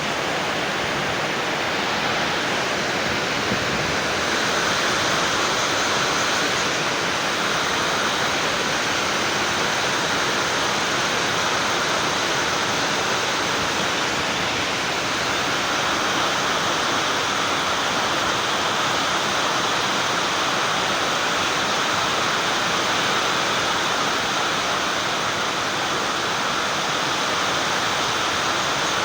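A steady, even rushing noise with no breaks or changes in level.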